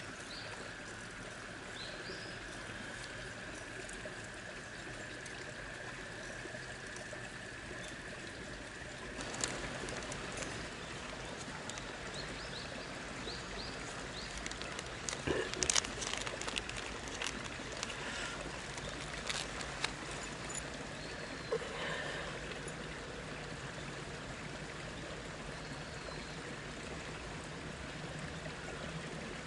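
Steady rush of flowing stream water, with scattered sharp clicks and knocks through the middle.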